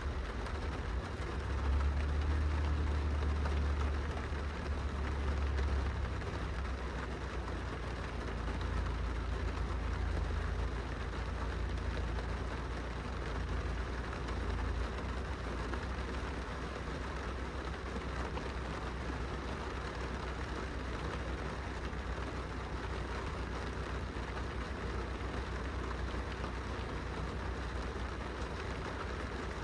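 Rain falling steadily on window glass, an even patter, over a low rumble that is strongest a couple of seconds in and eases after about six seconds.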